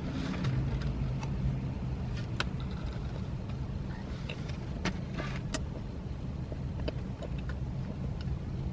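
Someone eating a cream-filled donut: soft chewing and mouth sounds with a few faint clicks, over a steady low hum.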